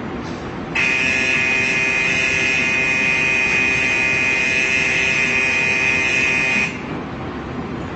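Station platform departure buzzer sounding one steady, continuous tone for about six seconds, then cutting off abruptly: the warning that the shinkansen's doors are closing before departure.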